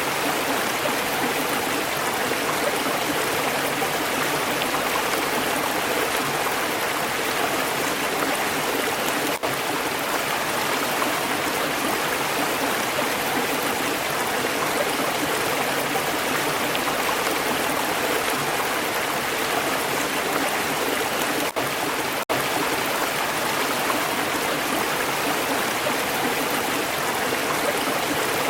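Stream water flowing steadily over stones, a continuous rushing and babbling. Twice there is a split-second drop in level.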